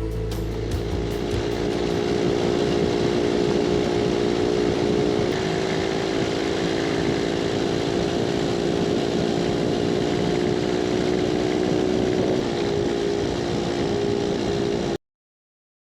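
Scott two-stroke twin motorcycle engine running steadily while riding on the open road, its note shifting slightly a couple of times. The sound cuts out abruptly near the end.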